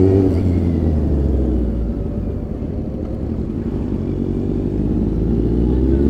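Kawasaki motorcycle engine running under way, a steady low drone from the rider's own bike. The note eases off just after the start, then rises as the bike accelerates over the last couple of seconds.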